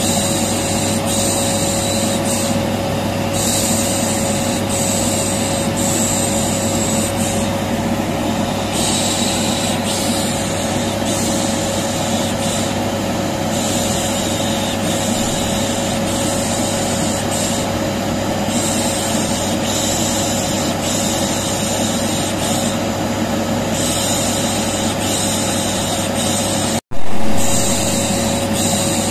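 Vacuum cleaner motor running steadily with a constant hum, overlaid with repeated 'shh shh' shushing hisses. Near the end the sound cuts out for an instant and starts again loudly.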